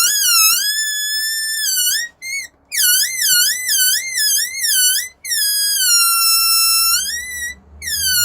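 Rubber balloon deflating through its pinched, stretched neck, letting out a loud high squeal. The squeal wobbles up and down in pitch, then holds steady. The air cuts off briefly about two seconds in and again near the end, then squeals again.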